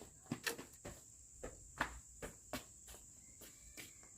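Steady high-pitched insect chirring, cricket-like, with a series of irregular sharp knocks or taps every few tenths of a second.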